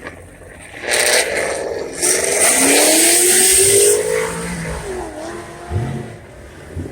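Dodge Scat Pack's V8 engine revving hard under acceleration. About a second in it gets loud, the pitch climbs for about two seconds, then falls away, with a short extra rev near the end.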